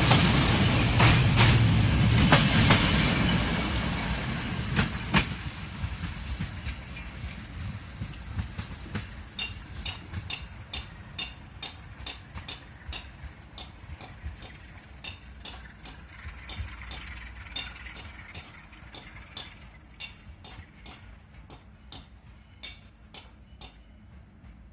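Passenger train rolling away: a loud rumble with sharp clacks dies down over the first five seconds. After that comes a steady clicking about twice a second from its wheels crossing rail joints, fading as it goes.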